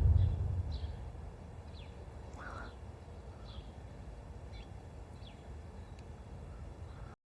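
Faint, scattered bird chirps over a low rumble that dies away in the first second or so. The sound cuts off suddenly near the end.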